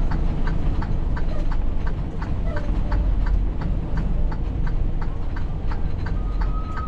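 A truck's turn-signal flasher ticking at an even pace, about two or three ticks a second, over the steady low rumble of the diesel engine heard from inside the cab. A steady beep starts near the end.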